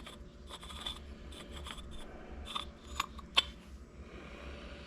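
Parts of a scooter's electric starter motor being handled: light metal scraping and clicking as the rotor and magnet housing are fitted together, with two sharper clicks about three seconds in.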